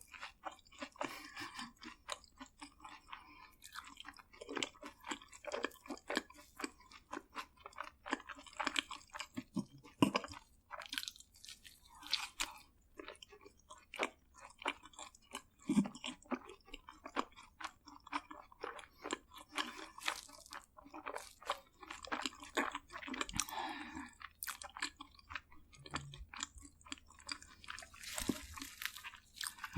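A person chewing crunchy fried food close to the microphone, with a run of irregular crisp crunches and wet chewing.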